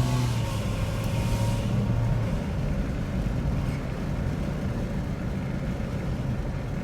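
Dodge Challenger SXT's V6 engine running under way through cut exhaust pipes. A steady engine drone drops away about two seconds in, leaving a low rumble.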